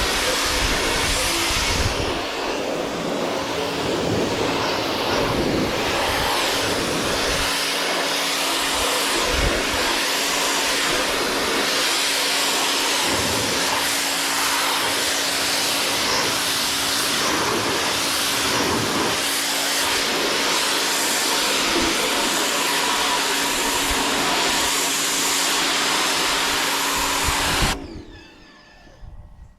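An electric machine running steadily: a constant motor hum under a loud, uneven rushing hiss. It shuts off abruptly near the end.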